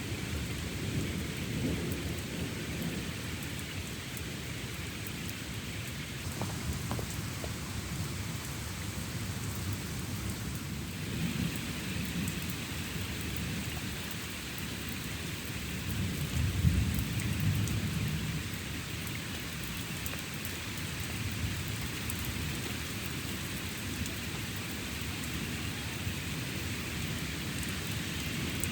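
Thunderstorm: steady rain falling with thunder rumbling low and rolling throughout. The rumble swells to its loudest a little past the middle, and the rain hiss grows stronger partway through.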